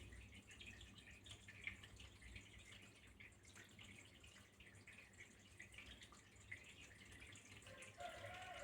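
Faint trickling and dripping of running water, in small uneven splashes. A faint held tone joins near the end.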